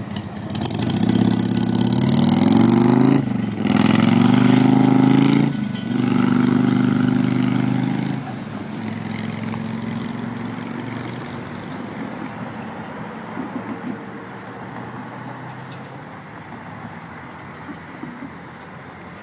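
Freight locomotive air horn sounding three long blasts, the pitch bending as it moves, then a steady rumble of the passing train fading away.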